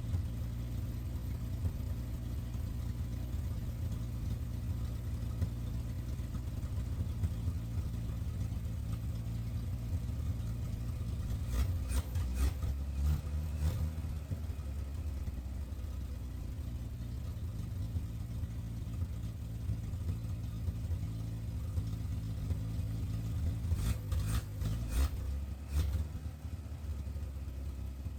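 The 1968 Chevy C20's inline-six engine is running at idle on its freshly rebuilt Rochester Monojet carburetor while the carb is given a rough starting tune. It runs steadily, with brief louder spells and clicks about halfway through and again near the end.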